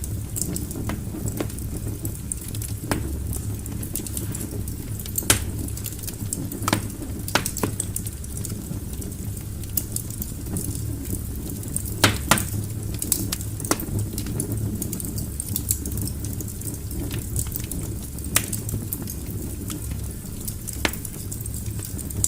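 Wood logs burning in a fireplace: a steady low rumble of flames with irregular sharp crackles and pops, the loudest pops about five and twelve seconds in.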